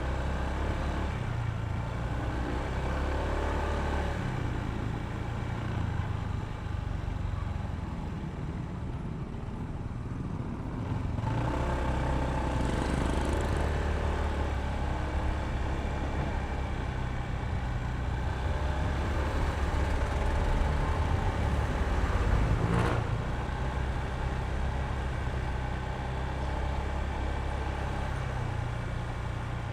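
Honda ADV160 scooter's single-cylinder engine running under way, its low note shifting with throttle, mixed with road and wind noise. The sound gets fuller and louder about a third of the way in, and a single short knock comes about three-quarters of the way through.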